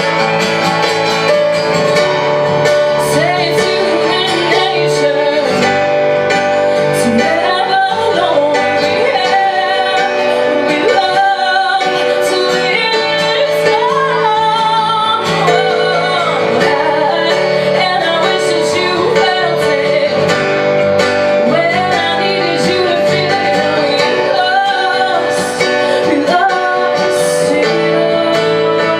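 A woman singing live, accompanied by plucked acoustic string instruments.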